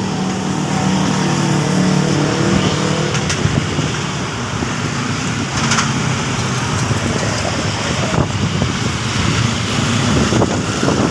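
A motor vehicle's engine running steadily, with a continuous low hum and noise.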